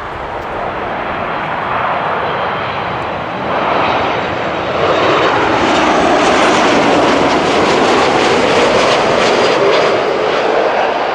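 Jet airliner on landing approach passing close by: engine noise that builds, holds at its loudest for several seconds, then eases off near the end.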